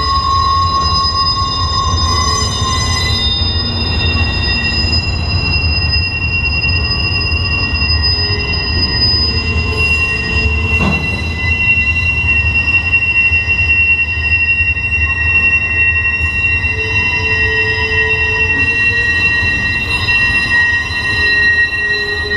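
Freight train of loaded flatcars rolling past: a steady low rumble of the wheels on the rails, with wheel squeal held in several high steady tones. A single knock sounds about halfway through.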